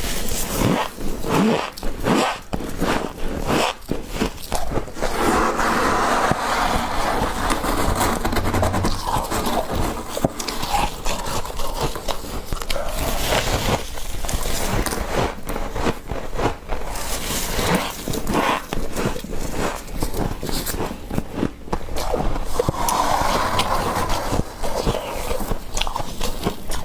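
Fresh, fluffy humidifier frost being scraped and scooped up: a continuous crunchy scraping, thick with small crackles and clicks.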